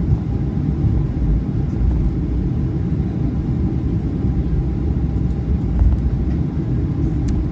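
Steady low rumble of the cabin noise inside a Boeing 737-400 on the ground after landing, with a faint tick near the end.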